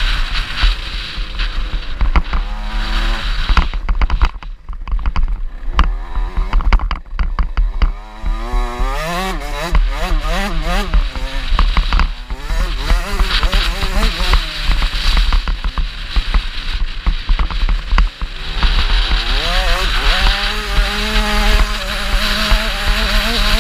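KTM 65 two-stroke motocross bike engine revving hard, its pitch rising and falling over and over with the throttle and gear changes, heard from a bike-mounted camera with wind buffeting the microphone. About four seconds in the engine note drops away for a few seconds, leaving clicks and knocks, before it picks up again.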